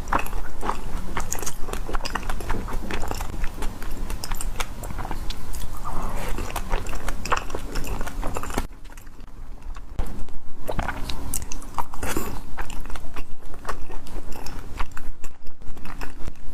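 Close-miked eating: crunchy bites and chewing with many sharp clicks, dipping briefly quieter about nine seconds in, then quick, steady rhythmic chewing.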